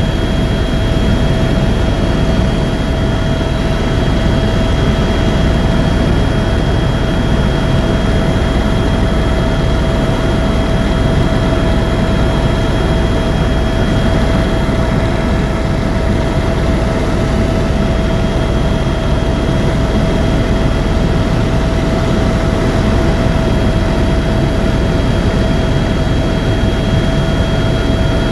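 Tour helicopter in flight, heard from inside the cabin: a steady, loud drone of turbine engine and rotor, with a constant whine over the low rumble.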